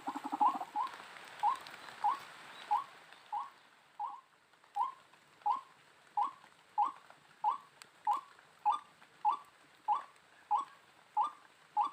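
White-breasted waterhen calling: a brief fast chatter at the start, then one short note repeated steadily, about three every two seconds.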